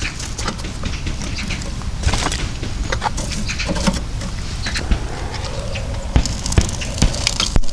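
Heavy rain pattering on a shelter roof: a steady drumming with many scattered sharp drop hits and taps.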